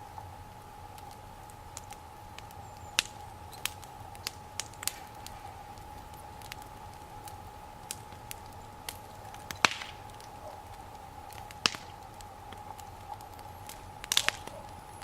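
Wood fire burning, with sharp pops and cracks every second or few, a quick cluster of them near the end.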